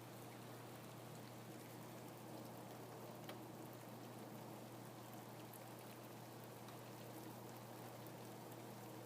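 Rain falling in a faint, steady patter with scattered individual drop ticks, one a little sharper about three seconds in, over a low steady hum.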